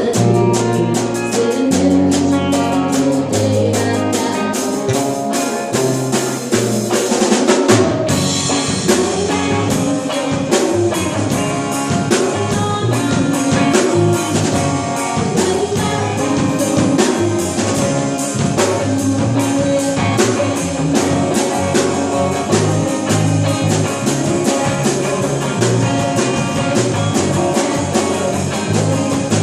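Live band playing an instrumental passage with no singing: a drum kit keeps a steady beat under bass and guitar. About eight seconds in, the sound suddenly turns brighter and busier in the high end.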